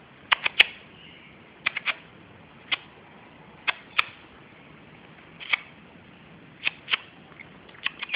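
A series of about a dozen sharp clicks at irregular intervals, several coming in quick pairs or threes, over a faint steady background.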